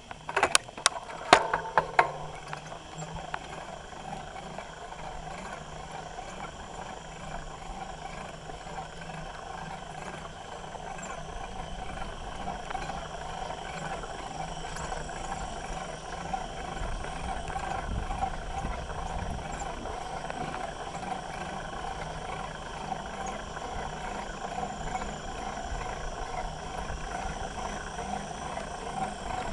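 Bicycle riding along a trail, heard from a handlebar mount: a steady rattling rumble of the moving bike, with a few sharp knocks in the first two seconds.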